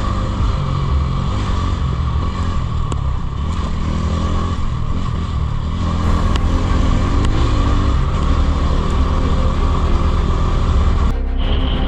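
Motorcycle engine running under way, its pitch rising and falling with the throttle. About eleven seconds in, the sound breaks off abruptly.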